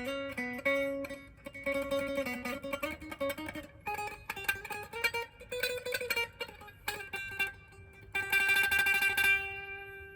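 Gibson 1958 Les Paul Standard VOS electric guitar played on its neck pickup through an amplifier: a phrase of picked single notes and chords, then about eight seconds in a fast, repeated strum that stops and leaves a chord ringing and fading.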